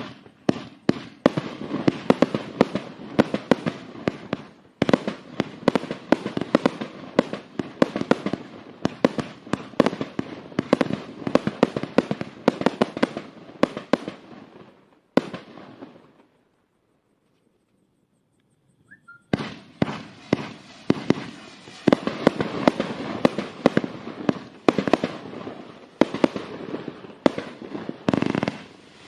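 Vivid Pyrotechnics 'Ziegelstein' firework firing a rapid, continuous volley of shots, several a second. It stops about 15 seconds in, falls silent for about three seconds, then starts firing again and tails off near the end.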